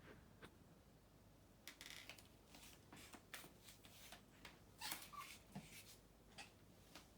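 Faint scratchy scuffles and clicks of a Bengal kitten's paws and claws scrambling on a surface as it chases a fly, in irregular spurts, busiest about two and five seconds in.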